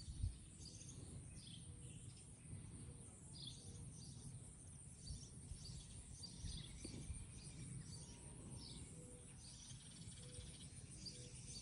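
Birds chirping faintly and repeatedly, over a low outdoor rumble.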